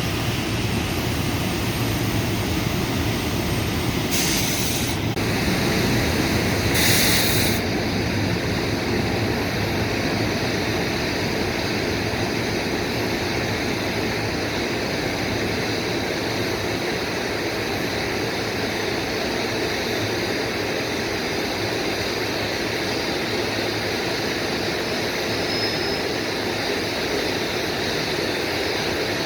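Container freight train rolling past, its wagons making a steady rolling noise, with two brief bursts of high hiss about four and seven seconds in.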